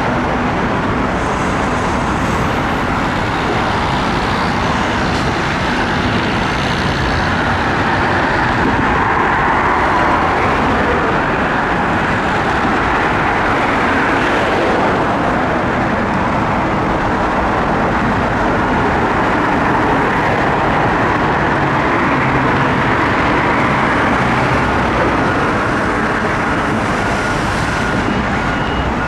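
Steady, loud vehicle and traffic noise, a dense unbroken rumble, with faint beeping tones near the end.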